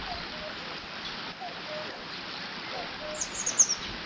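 Water rushing steadily through a beaver dam, with a bird's quick run of high chirps about three seconds in and a few soft, short, lower calls scattered through.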